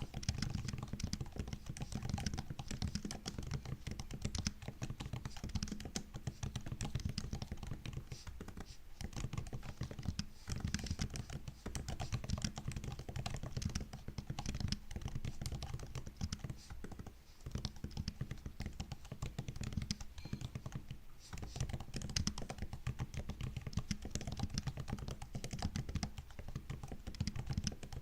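MacBook laptop keyboard being typed on: a steady, fast run of key clicks and taps, with brief pauses now and then.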